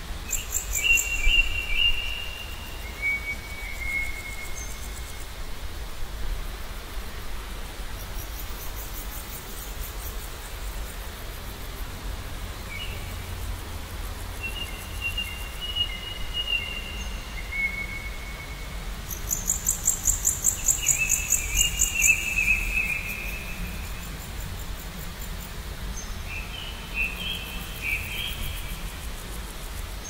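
Wild birds singing: phrases of clear whistled notes, several stepping down in pitch, repeated every several seconds, along with bursts of very high, rapid trills, loudest a little past the middle. A low steady rumble runs underneath.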